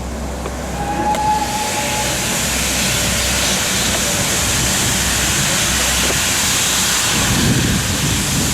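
Steam locomotive hissing steam, a loud even hiss that builds over the first couple of seconds and then holds steady, with a brief high note about a second in and a low rumble rising near the end.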